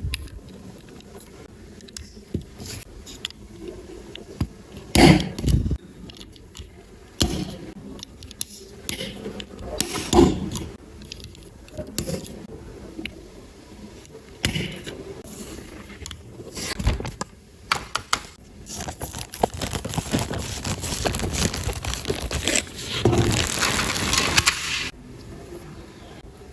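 Plastic LEGO bricks being handled and pressed together: scattered clicks, knocks and scraping. Near the end come several seconds of dense crinkling that stop abruptly.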